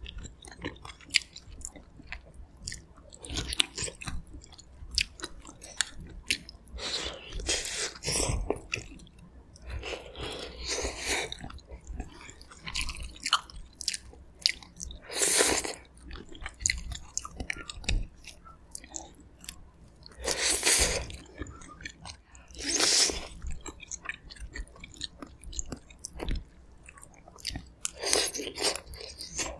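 Close-miked chewing and biting of gamjatang's pork-bone meat and braised aged kimchi: wet mouth sounds and small clicks, with a few louder noisy bursts about 15, 21 and 23 seconds in.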